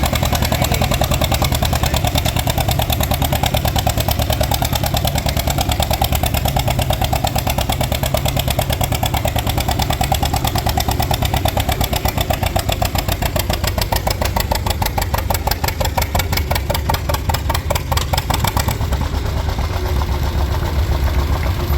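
John Deere A's two-cylinder engine running hard under load while pulling the sled, its exhaust giving a loud, steady, fast popping beat.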